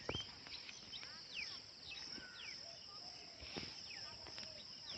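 Insects trilling in a steady high chorus, with many short downward-sliding bird chirps over it and a few faint knocks.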